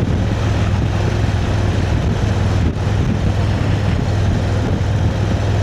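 Motorcycle engine running steadily at cruising speed, with a constant low hum under rushing wind and road noise.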